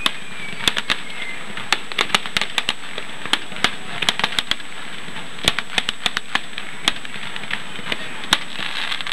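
Fireworks display: irregularly spaced sharp bangs and crackling pops from bursting aerial shells and crackle stars, over a steady background hiss.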